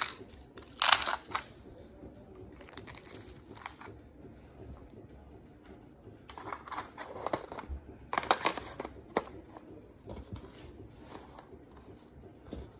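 Intermittent rustling, clicks and scrapes of a small product box and its plastic parts being handled, in several short bursts.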